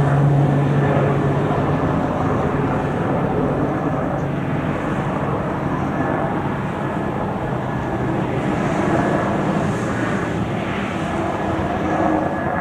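Steady drone of a ship's diesel engine, whose low hum is strongest at first and fades over the next few seconds, over a wash of wind and water noise.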